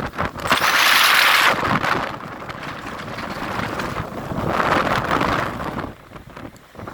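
Strong dust-storm wind gusting across the microphone, with a loud gust about half a second in and another around the middle, each rising and then easing off.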